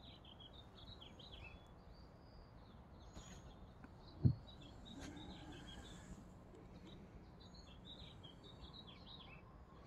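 Small birds chirping repeatedly in the background, over a faint steady hum of honey bees flying around the hive. A single brief thump about four seconds in.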